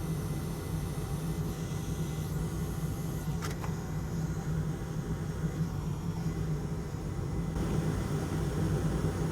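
Steady low hum of a running fan or blower motor on the repair bench, with one short click about three and a half seconds in.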